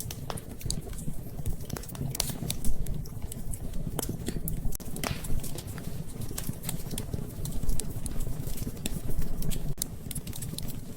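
Wood fire crackling in a fireplace: irregular sharp pops and snaps over a steady low rumble of the flames, one louder pop about two and a half seconds in.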